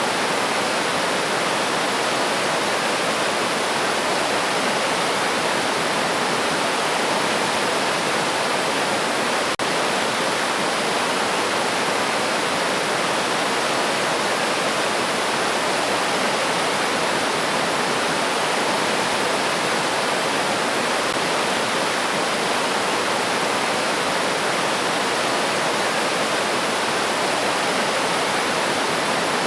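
River stream rushing steadily: an even, unbroken wash of flowing water.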